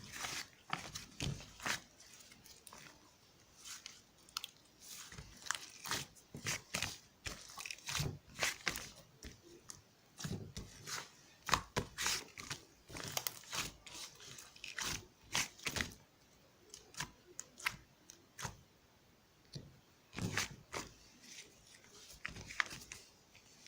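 Slime being squished and stretched by hand, making irregular crackling clicks and squelches, with a few quieter pauses.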